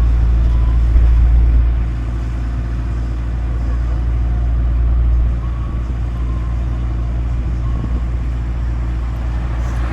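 Tourist road train's engine running steadily, heard from aboard: a low rumble that eases a little about two seconds in.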